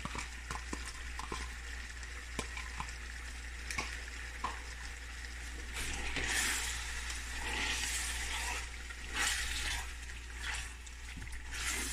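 Chicken pieces frying in oil and spices in a metal pan, sizzling while a spatula stirs in yogurt. There are light clicks of the spatula at first, and louder scraping, sizzling strokes from about halfway through.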